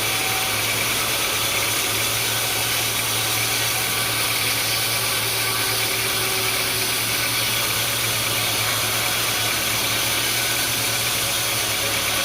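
A steady engine or machine running evenly, with a constant low hum under a broad hiss and no change in pace.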